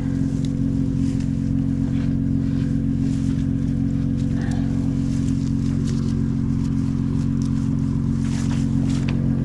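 A vehicle engine idling steadily: an even, unchanging low hum, with a few faint clicks over it.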